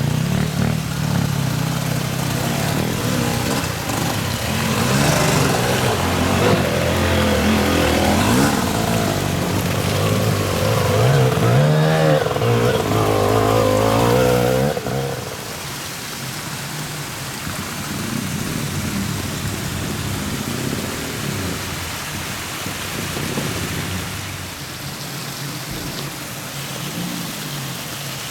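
A vehicle engine running and revving, its pitch rising and falling around the middle, over the steady hiss of heavy rain. About halfway through the engine sound drops away, leaving the rain.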